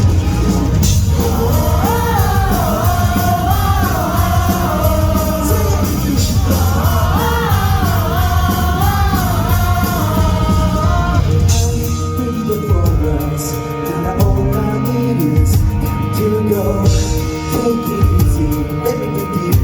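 Live rock band playing a song with a male lead vocal. About twelve seconds in, the full band drops back to a lighter, sparser accompaniment.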